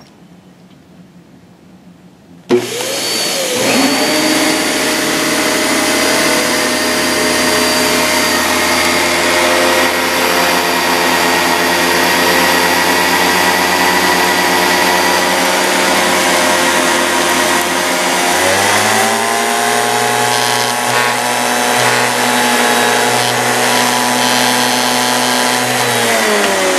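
Panasonic MC-CG885 bagged vacuum cleaner switched on about two and a half seconds in and running steadily with a motor whine and rushing air. About two-thirds through, its pitch rises and holds, then it drops back near the end.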